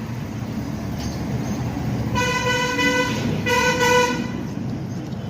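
Vehicle horn honking twice, about two seconds in and again a moment later, over a steady low rumble of traffic.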